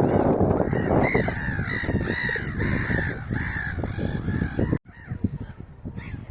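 A flock of birds calling noisily, many harsh, repeated calls overlapping above a dense rustling; the sound cuts off suddenly about three-quarters of the way through, and fainter bird calls follow.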